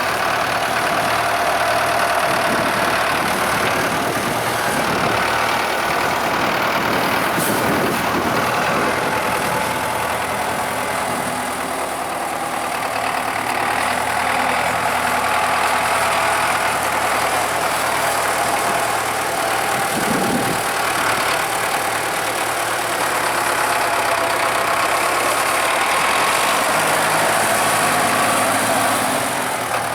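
Valtra T160 tractor's diesel engine running steadily as the tractor drives along.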